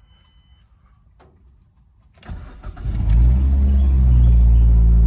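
A 2010 Mazda 3's 2.0-litre four-cylinder engine being started: after a faint click, the starter cranks briefly about two seconds in, the engine catches with a rev and then settles into a steady, loud idle.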